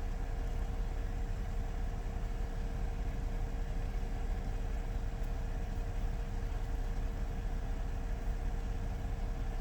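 Car engine idling, a steady low rumble heard from inside the cabin, with a constant hum above it.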